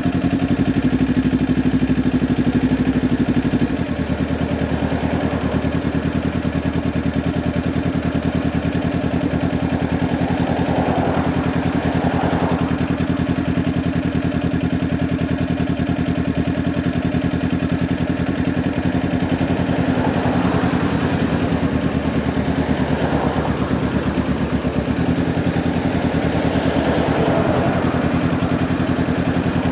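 Kawasaki Ninja 400's parallel-twin engine running through a Leo Vince LV10 aftermarket exhaust, holding a steady, unchanging pitch throughout, with a small change in its low tone about four seconds in.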